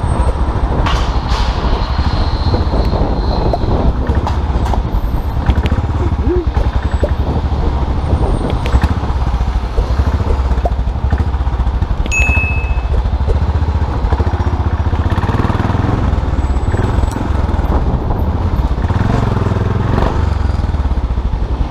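Motorcycle engine running steadily while riding. About two seconds in, a sign falls from a building and crashes, a noise that is not much louder than the engine.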